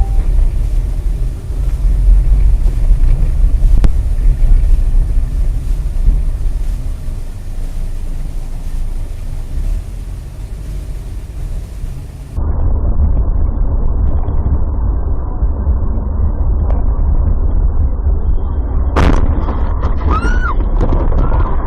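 Vehicle road and engine rumble as picked up by dash cams, cut about 12 seconds in to a duller, muffled recording. About 19 seconds in there is one sharp bang, followed by a few short rising-and-falling whistling tones.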